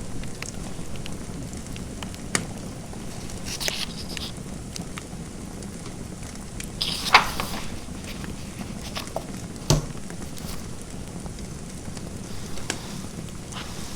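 Fireplace fire crackling: a steady hiss with scattered sharp pops, the loudest a little over seven seconds in.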